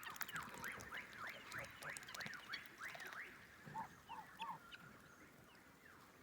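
Birds calling: a fast run of repeated rising and falling chirps, then three short lower calls about four seconds in, fading toward the end.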